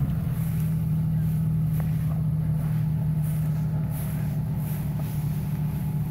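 Jeep Cherokee engine running at a steady speed, an even low drone.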